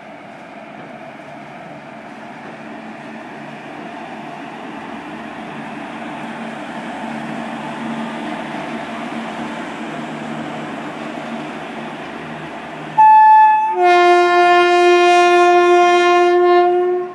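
Container train hauled by an Indian Railways WAG-7 electric locomotive passing with a steady rumble and hum, growing louder toward the middle as the locomotive goes by. About thirteen seconds in, a locomotive horn gives a short toot and then a long, loud blast lasting about three seconds.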